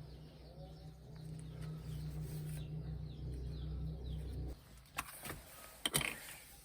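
Small birds chirping faintly over a low rumble that stops suddenly about four and a half seconds in, followed by a few sharp knocks.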